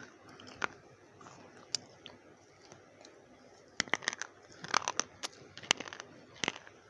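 Slate pencils being bitten and chewed, giving sharp, brittle crunches: a few single snaps at first, then a quick run of crunches from about four seconds in.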